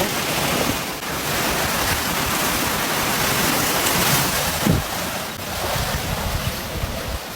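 Steady rushing of water with wind buffeting the microphone, and a brief low thud about four and a half seconds in.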